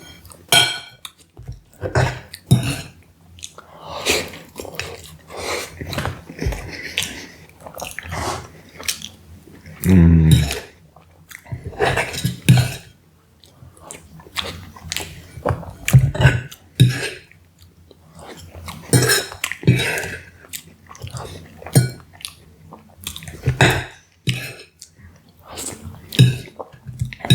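Close-miked chewing and mouth smacking of soft pumpkin pie and ice cream: irregular wet clicks and smacks throughout. About ten seconds in there is a brief low voiced sound from the eater.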